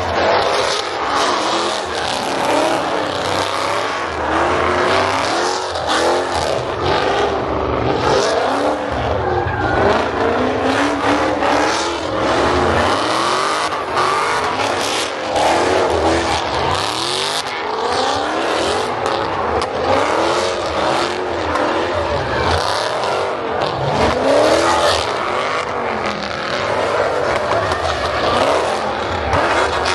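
Car engines revving up and falling back again and again, with tires squealing and hissing as cars are spun in donuts and burnouts.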